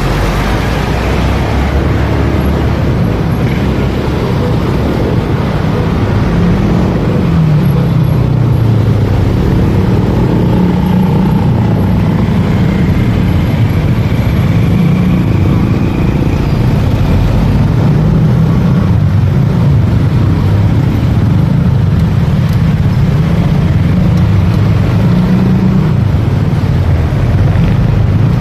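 Motorcycle engine running while riding, its pitch rising and falling with the throttle, under a steady rushing noise.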